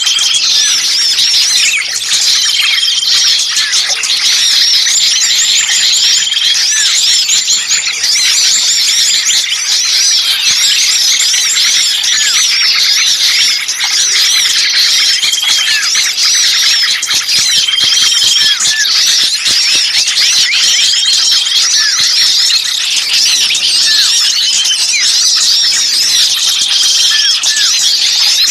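Bird-lure recording of many small birds calling noisily at once: a dense, continuous twittering of quick high chirps, with a short level whistle repeating every two to three seconds. It is a 'ribut kejepit' lure, a mix of small birds calling excitedly as if one were caught, used to draw other birds in.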